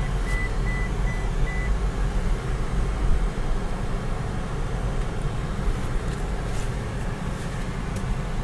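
Car cabin rumble as the car is driven slowly into a parking spot, with a rapid high beeping that stops about two seconds in.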